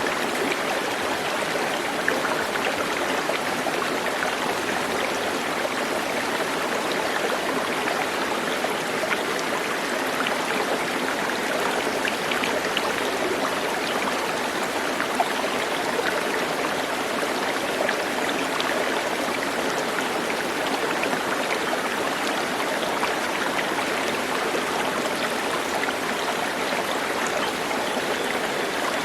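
Stream water running steadily, an even rushing with a light trickle.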